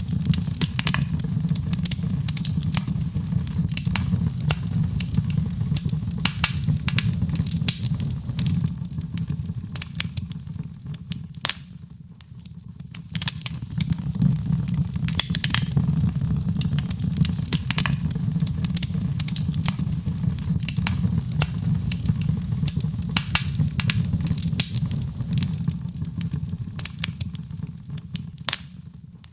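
Fireplace fire crackling and popping with many irregular snaps over a steady low rumble of flame. The sound dips briefly about twelve seconds in, then returns.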